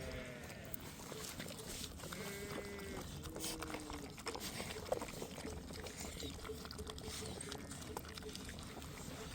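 A flock of livestock bleating, with a few short calls about two to three seconds in and fainter ones later, over a steady background of scattered clicks and noise.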